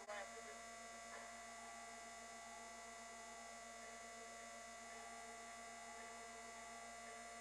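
Faint steady electrical hum, made of a few unchanging tones.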